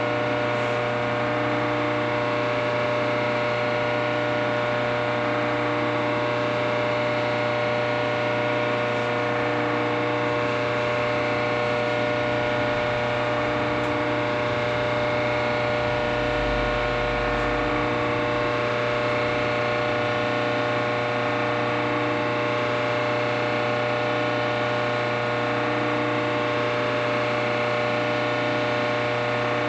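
Steady machine hum made of many whining tones, with a faint pulse about every two seconds and a brief low rumble about halfway through.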